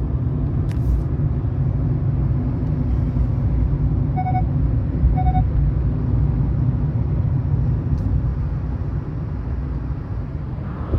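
Car driving with a steady low rumble of road and engine noise. Two short electronic beeps come about a second apart near the middle.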